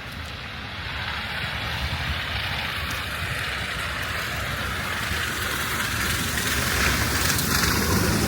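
A motor vehicle's engine rumbling, with a hiss that grows steadily louder toward the end as it draws nearer.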